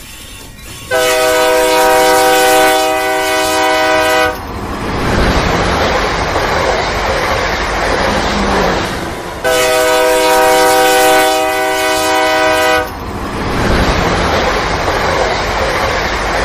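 Train sound effect: a multi-note train horn blows twice, about three seconds each time, starting about a second in and again past the middle, with a train's rolling rumble and clatter between the blasts.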